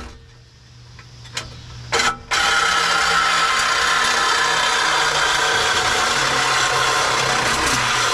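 Reciprocating saw cutting through a steel exhaust pipe. It stops at the start, gives two short bursts about a second and a half and two seconds in, then runs steadily, cutting, from just after two seconds on.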